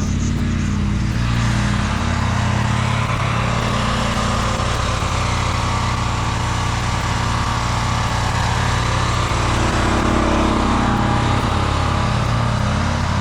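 Gas-engine pressure washer running steadily, with a rushing hiss over the engine note.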